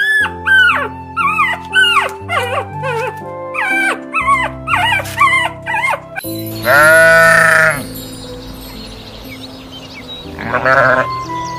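Shar-pei puppies whimpering in a quick run of short, high, squeaky calls that rise and fall. Then a Barbary sheep gives one loud bleat about a second long, and a shorter bleat near the end, over background music.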